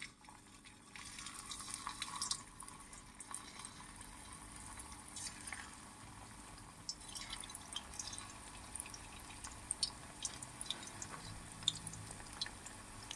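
Batter-coated banana strips deep-frying in hot mustard oil in a kadhai: a faint sizzle with scattered small crackles and pops, which come more often in the second half.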